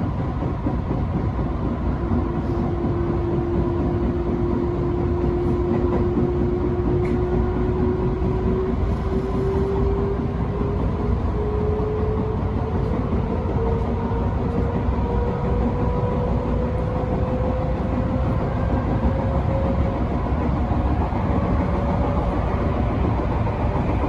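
Electric passenger train running, heard from on board: a steady rolling rumble with a motor whine that climbs slowly in pitch as the train picks up speed.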